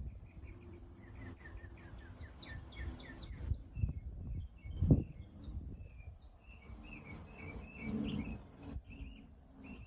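A bird singing outdoors: repeated short chirping notes in quick runs, over a low rumble with a sharp thump about five seconds in.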